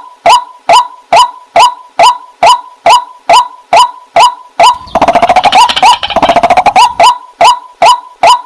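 Waterhen calling: a short pitched note repeated steadily about twice a second. From about halfway a fast, rattling chatter overlaps the calls for about two seconds.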